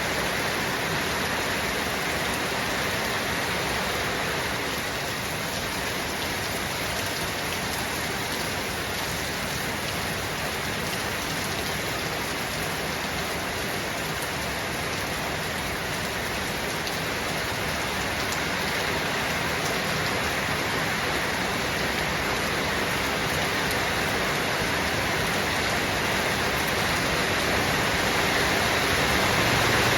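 Steady rain falling, an even hiss of drops that grows a little louder near the end.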